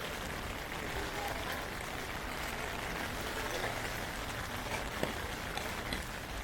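Heavy typhoon rain falling steadily, an even hiss with scattered drops ticking on nearby surfaces and one sharper drop about five seconds in.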